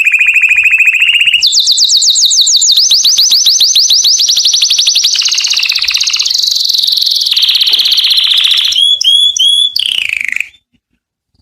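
Canary singing: a run of rapid trills, each a quick repetition of one note that switches to a new note every second or two. The song cuts off suddenly near the end.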